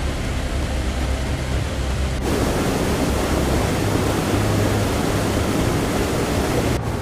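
Steady rushing noise of floodwater, changing abruptly about two seconds in and again near the end as the footage cuts between clips.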